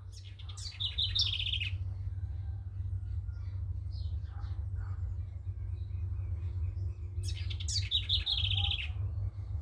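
A songbird singing two phrases, each a rapid trill lasting about a second and a half, one near the start and one about seven seconds in, with fainter chirps between. A steady low rumble runs underneath.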